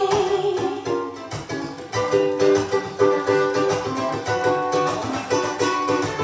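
Live acoustic music: a strummed string instrument playing chords in a steady rhythm, with no singing.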